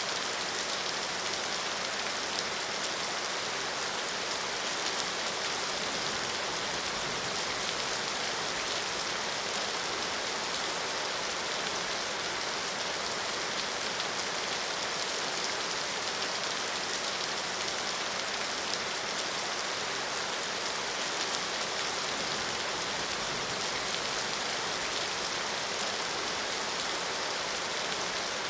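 Steady rain falling and pattering on surfaces, an even hiss without thunder or breaks.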